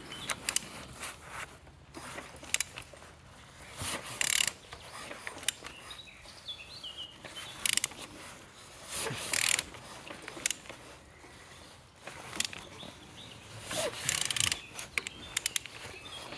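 A removed engine being turned over by hand: repeated mechanical clicks and scraping, with a louder burst about every five seconds. It turns smoothly against very strong compression.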